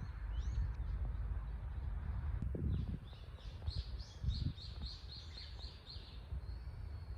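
A small songbird singing: a few scattered high chirps, then a quick run of about eight repeated high notes a few seconds in, over a steady low rumble.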